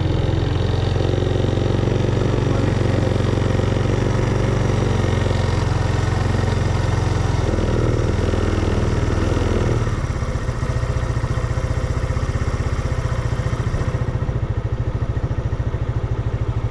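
Motorcycle engine idling fast, then about ten seconds in the idle drops to a slower beat with distinct, even firing pulses as the carburettor idle is turned down.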